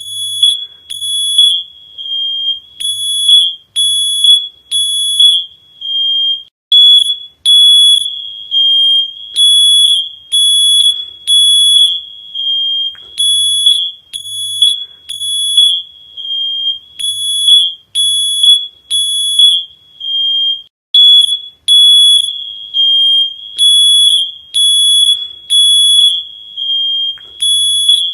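High-pitched electronic alarm beeping over and over at a single pitch, in short loud pulses about one and a half times a second.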